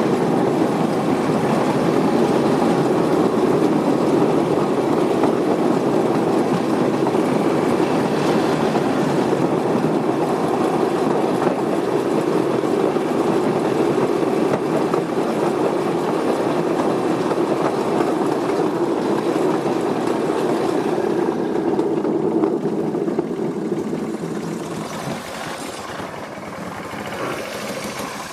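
Steady rumbling vehicle noise, as of a vehicle driving along a rough road, fading somewhat in the last few seconds.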